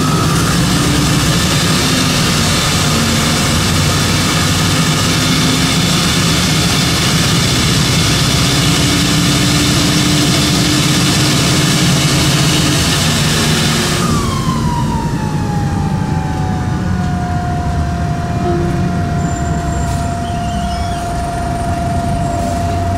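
A 2002 NovaBus RTS bus's Detroit Diesel Series 50 EGR diesel engine pulling hard, heard loud from the back of the bus, with a high whine that the title puts down to a bad turbocharger. About fourteen seconds in, the engine comes off the throttle: the roar drops and the whine falls in pitch, then holds at a lower pitch.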